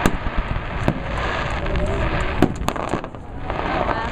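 Aerial fireworks shells bursting: four sharp bangs, the last two close together, over a steady din of more distant bursts.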